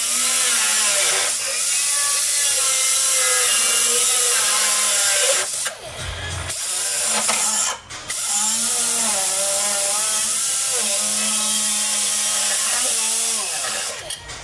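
Power tool cutting car-body sheet metal: a loud, hissing grind with a wavering pitch, stopping briefly twice around the middle.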